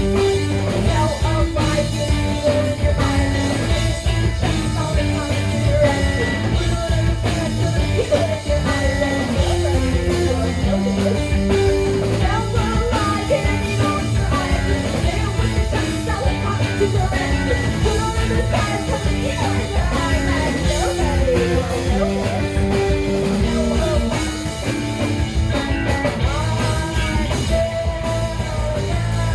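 Rock band playing a song live, loud and steady, with changing bass notes under the full band.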